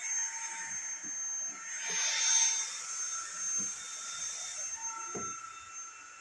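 Fieety cordless stick vacuum running, its motor giving a steady high whine over the rush of air, which swells about two seconds in.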